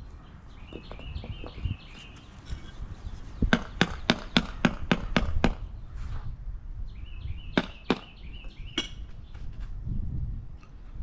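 A quick run of about eight sharp knocks, then three more, as pavers are knocked and set into place. Birds chirp in the background.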